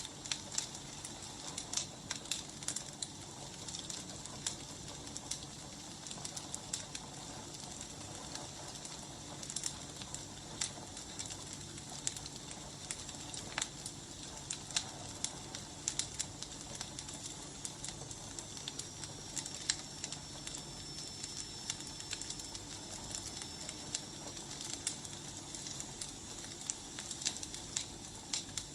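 Wood fire crackling: irregular sharp pops and snaps over a steady hiss of burning logs.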